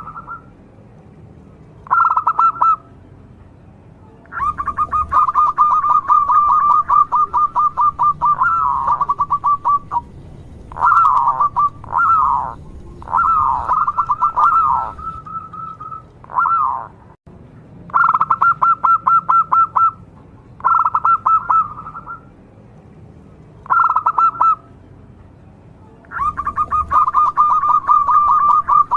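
Zebra dove (perkutut) singing in repeated bouts of rapid staccato cooing notes, some bouts short and some running several seconds, with a few falling slurred notes partway through.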